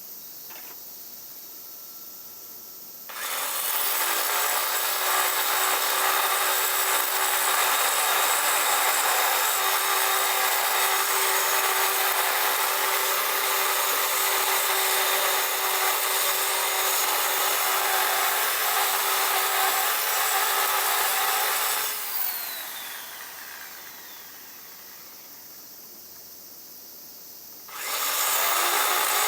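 Handheld power tool cutting or grinding, a loud steady rasping noise with a faint steady hum under it. After about twenty seconds it stops and the motor spins down with falling pitch, then the tool starts again near the end.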